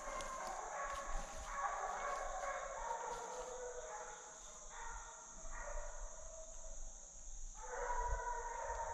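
A pack of deer hounds baying together in overlapping, drawn-out voices, swelling and fading in waves: the pack in full cry on the trail of a running deer.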